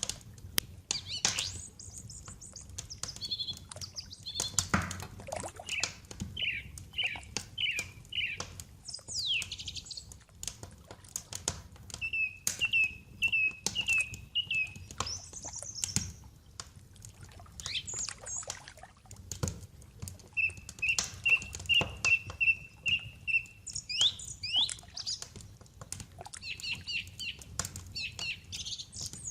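Wood fire crackling and popping steadily, with birds chirping over it in quick runs of short repeated notes.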